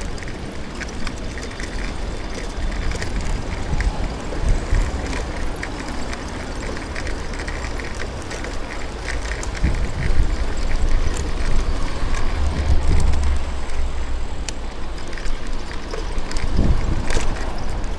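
Wind buffeting the microphone during a city bicycle ride, over steady road noise with scattered small clicks and rattles. The buffeting grows stronger about ten seconds in.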